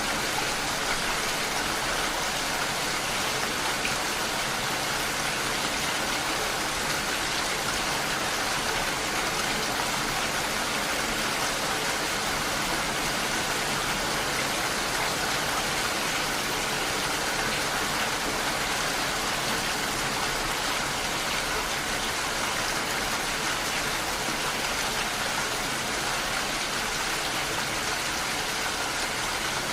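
Steady rain falling on window glass, an even, unbroken sound.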